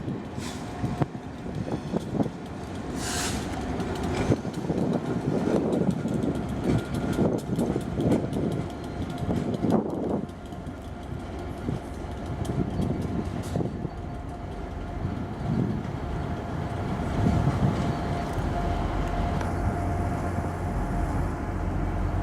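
Class 67-hauled test train passing: steady rumble with wheels clattering over rail joints and points, and a low engine drone rising in the last few seconds.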